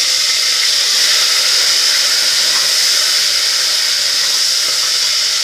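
Tomatoes, green chillies and ginger sizzling with golden-fried onions in hot oil: a loud, steady hiss while they are stirred.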